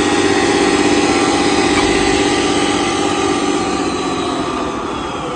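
A small truck's engine running steadily, easing off a little after about three and a half seconds.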